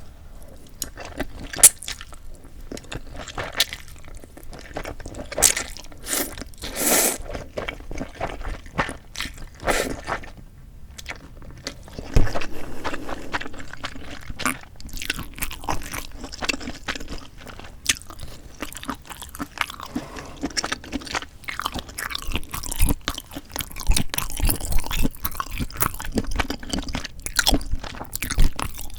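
Close-miked eating: a person chewing and biting a meal of bibim-myeon noodles and golbaengi sea snails, with irregular crunches and wet mouth clicks.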